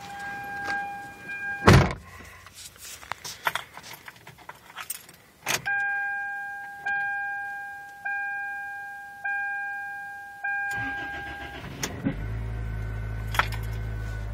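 Car keys jangling and a loud thump. Then a warning chime dings about five times, evenly spaced, before a 1998 Chevy Prizm's 1.8-litre four-cylinder cranks for about a second and fires on a 33 °F cold start. It settles into a steady idle near the end.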